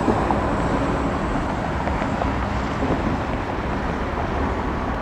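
Steady low rumble and rush of jet aircraft engine noise at the airport, with no rise or fall in level.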